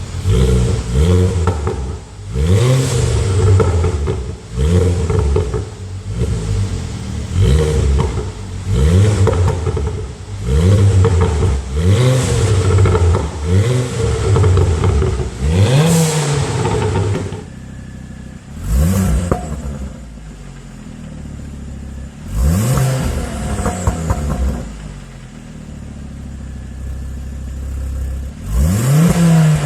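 Ford Focus ST engine revved through an aftermarket exhaust in quick throttle blips, the pitch rising and falling about every one and a half to two seconds. About halfway through it settles to a lower idle, broken by three more separate revs, the last near the end.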